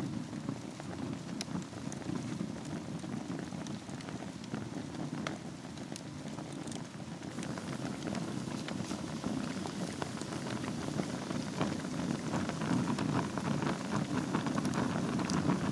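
Wood fire burning in a fireplace: a steady low rush of flame under dense small crackles, with scattered sharp pops, growing somewhat louder in the second half.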